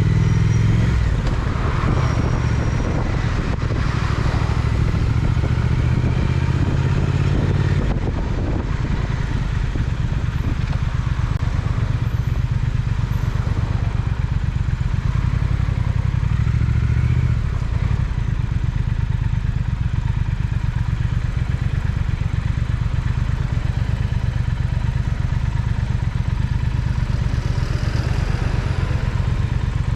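Triumph Speed Twin's parallel-twin engine running steadily under way, a low exhaust note heard from the rider's seat, with the throttle easing off briefly twice, about eight and seventeen seconds in.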